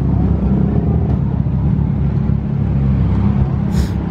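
Car engine running close by with a steady low rumble, and a brief hiss near the end.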